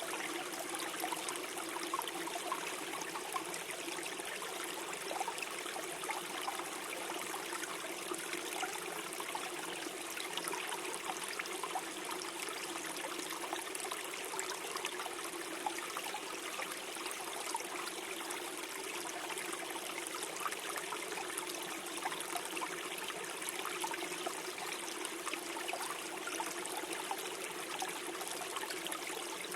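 Small forest stream flowing and gurgling over stones, a steady trickling babble.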